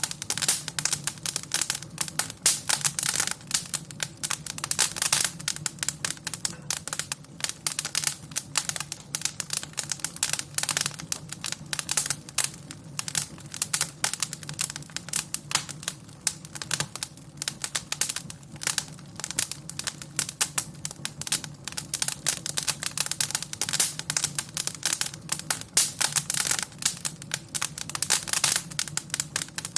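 Wood fire crackling: dense, irregular pops and snaps over a steady low rumble of flame.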